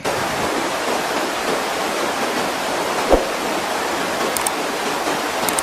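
Steady, loud rush of water, the dense noise of heavy rain or floodwater, starting and ending abruptly. A single brief thump about three seconds in.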